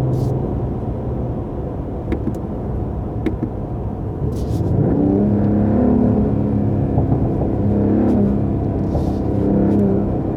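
Mercedes-AMG GT 43 4-Door Coupé's turbocharged inline-six engine and exhaust under way. It runs lighter for the first few seconds, then pulls harder from about halfway, its note rising and holding under acceleration.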